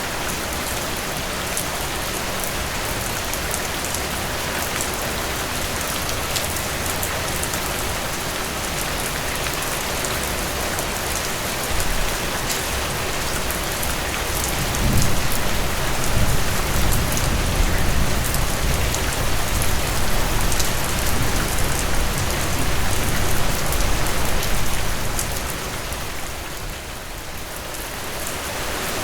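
Steady rain falling on a surface, a dense even hiss with many small drop ticks. About halfway through, a deep low rumble swells for ten seconds or so and then fades.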